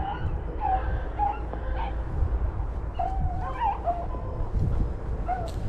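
Pack of rabbit-hunting dogs baying in short, scattered yelps, several voices overlapping: the dogs giving tongue as they run a rabbit's scent trail. Low wind rumble on the microphone underneath.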